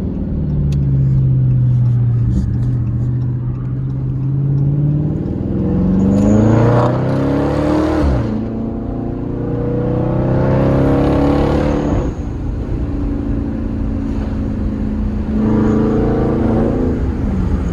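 2019 Dodge Charger Scat Pack's 392 Hemi V8 with its mid mufflers deleted, running at a low steady pitch and then accelerating hard in three pulls, the exhaust pitch rising each time and cutting off sharply about eight and twelve seconds in.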